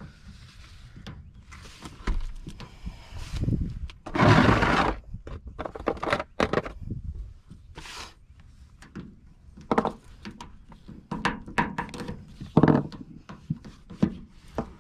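Handling of the unglued PVC condensate drain fittings: a string of irregular plastic knocks, clacks and scrapes, with a longer scraping rush about four seconds in. The joints were never glued, so they come apart freely.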